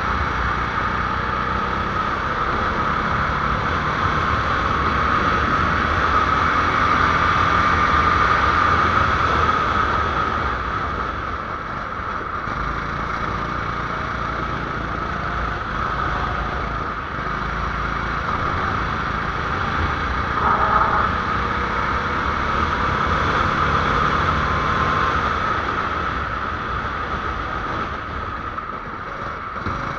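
A 270cc engine running steadily, its level swelling and easing a little but with no sharp revving.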